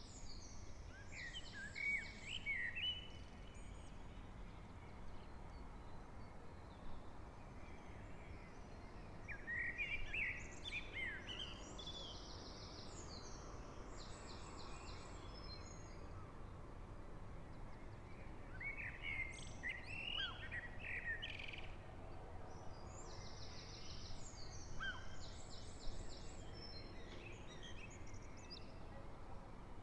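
A songbird singing in short phrases about every eight seconds, each mixing lower clear notes with quick high twittering, over a faint steady low rumble.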